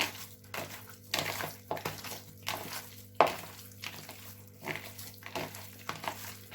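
Kitchenware being handled: a run of irregular knocks and clinks of dishes, pans and utensils, over a faint steady hum.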